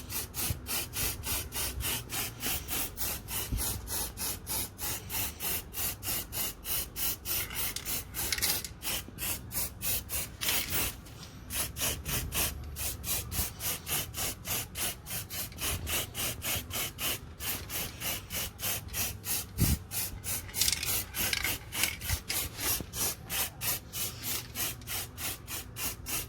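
Aerosol can of silver spray paint in use: a rhythmic hiss that pulses about three times a second, with a few longer unbroken stretches of spray.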